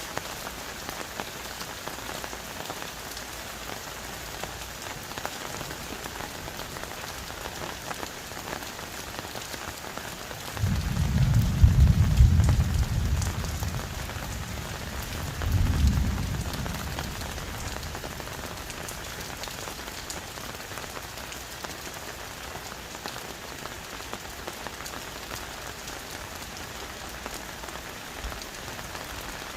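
Heavy tropical rain falling on forest foliage, a steady hiss throughout. About ten seconds in, a loud low rumble swells for about three seconds, and a second, shorter rumble follows about two seconds later.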